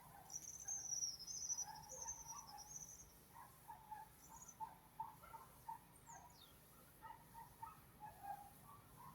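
Small birds calling: a high, warbling song phrase lasting about three seconds near the start, then a brief high note and a quick falling whistle, over a steady scatter of short, lower chirps.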